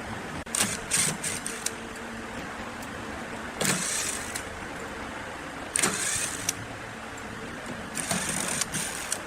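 Workshop machinery running steadily, with four short bursts of hissing noise.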